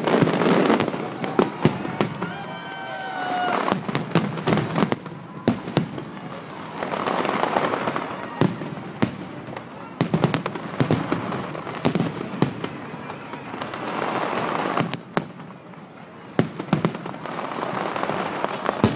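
Fireworks display: many sharp bangs from bursting aerial shells, coming irregularly throughout, with swells of crackling between them.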